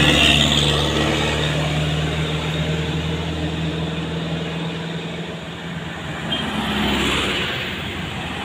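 Heavy truck's diesel engine labouring up a steep climb, a steady low engine drone, loudest at the start and fading over the first six seconds. A second vehicle's noise swells about seven seconds in.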